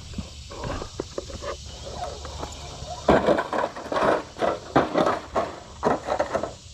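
6x6 RC crawler truck clambering over rocks: tyres and chassis knocking and scraping on stone, from light clicks at first to a run of loud, irregular clattering knocks from about three seconds in as the truck bounces over the rocks.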